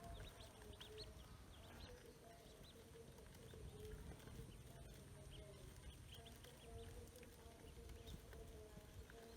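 Ducklings peeping: many short, high-pitched peeps scattered irregularly, faint.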